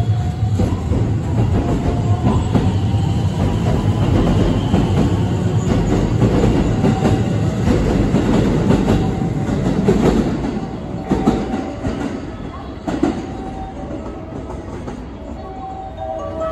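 JR West electric train moving out along the platform. Its steady running noise and wheels on the rails stay loud for about ten seconds, then fade as it leaves, with a couple of sharp clacks near the end.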